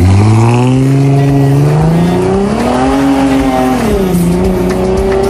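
A sedan's engine revving hard as the car accelerates away. The pitch climbs steeply, dips once about four seconds in, then climbs again.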